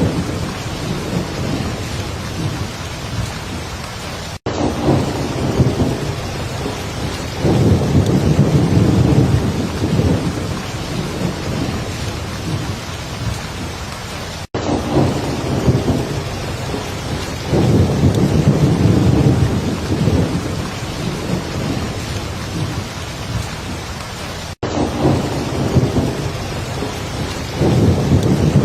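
Heavy rain falling steadily, with low rolling thunder swelling up and fading about every ten seconds. The sound cuts out for an instant three times, about ten seconds apart, where the recording loops.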